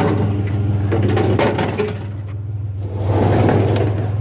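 Truck running, heard from inside the cab: a steady low engine hum with road noise, and a few knocks and rattles about a second and a half in and again around three seconds.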